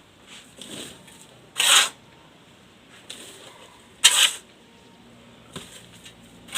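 Beach sand poured from a bucket in three short rushes, about two and a half seconds apart.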